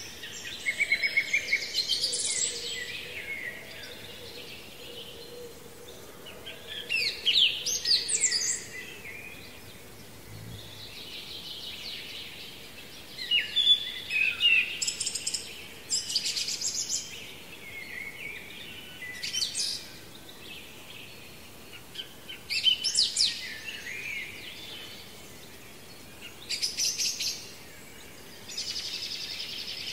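A songbird singing in short, high, twittering phrases repeated every few seconds, over a steady outdoor background hiss.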